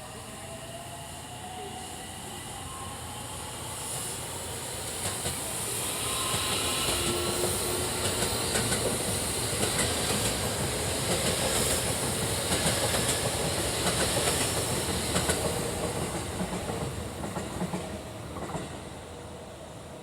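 Freight train passing at speed: a rising rumble with the clickety-clack of wheels over rail joints, loudest in the middle, fading away near the end.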